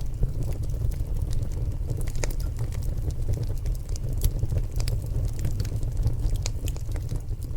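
Logs burning in a fireplace: irregular sharp crackles and pops over a steady low rumble of the fire.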